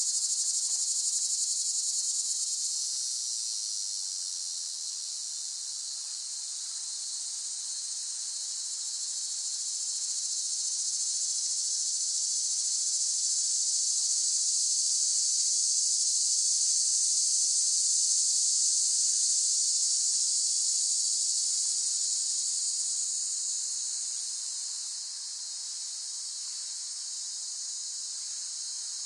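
A chorus of cicadas buzzing in a continuous high-pitched drone. It swells in the middle and drops a little about 25 seconds in.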